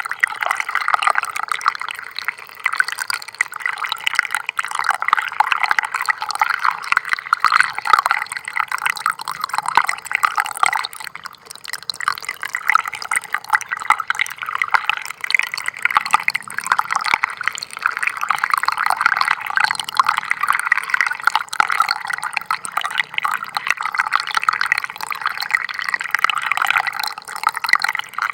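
Small stream of water trickling steadily, a dense patter of little splashes and drips.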